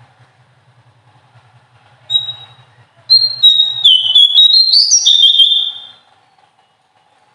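Small songbird singing: one short high whistle about two seconds in, then about three seconds of loud, piercing whistled notes that step up and down in pitch, in the shrill 'nembak' style used in masteran training recordings, stopping about six seconds in.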